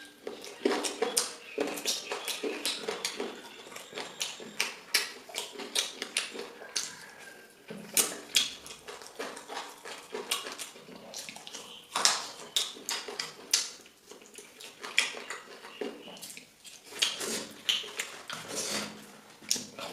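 Close-up sounds of a person eating: chewing and lip smacking, with many short, sharp clicks coming irregularly.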